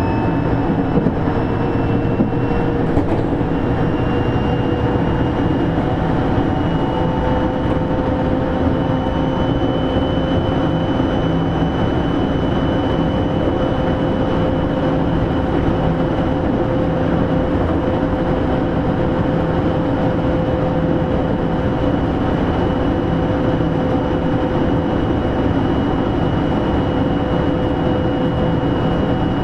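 Tobu 30000 series commuter train running on the Tobu Tojo Line, heard from on board: a steady rumble of wheels on rail with a motor and gear whine that rises a little in pitch over the first few seconds and then holds almost level at speed.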